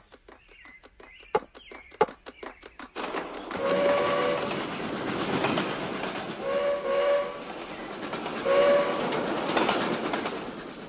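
Cartoon sound effect of a toy model train. It starts with a run of quick, regular clicks, about five a second. About three seconds in it becomes a louder chugging train with a whistle tooting three times.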